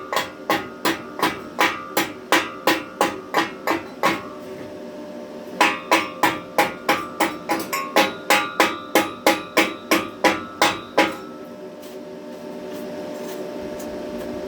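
Hammer striking steel, about three blows a second, each blow leaving a metallic ring; the hammering pauses about four seconds in, resumes, and stops about eleven seconds in.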